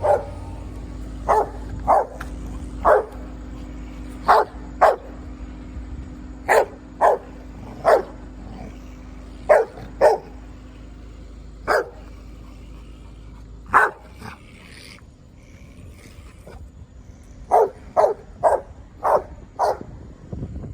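A pit bull barking, single sharp barks and pairs a second or two apart, with a pause about two-thirds through followed by a quick run of five barks near the end. A steady low hum runs underneath and stops about two-thirds through.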